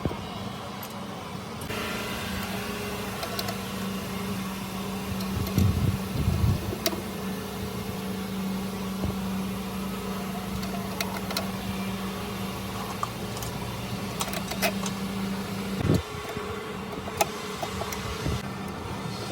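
A machine humming steadily, starting about two seconds in and stopping about sixteen seconds in, with scattered sharp clicks and a few heavier knocks around six seconds in and again as the hum stops.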